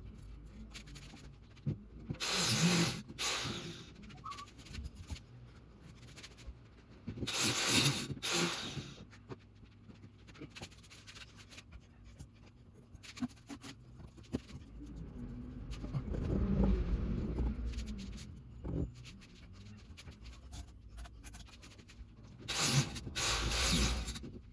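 Rough scraping from masonry work on stone and mortar, in three bursts of about a second each, with quieter handling noise between them.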